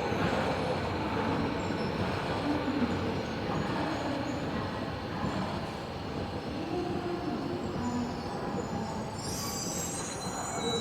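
Tobu 70000 series train heard from inside the car while running: a steady rumble of wheels on rail, with faint tones from the drive gliding up and down. Near the end comes a high-pitched wheel squeal.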